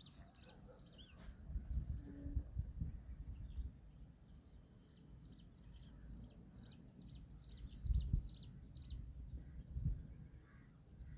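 A bird calling in a long series of short high chirps that come closer together toward the end, over a steady high whine and a low, gusty rumble of wind on the microphone.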